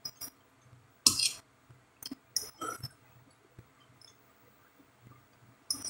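Close-up eating sounds of someone chewing food: a handful of short, separate mouth smacks and clicks, the loudest about a second in.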